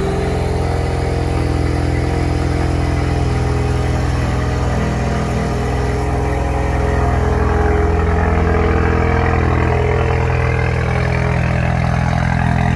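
Ford Mustang EcoBoost's 2.3-litre turbocharged four-cylinder idling steadily just after start-up, through a catless downpipe.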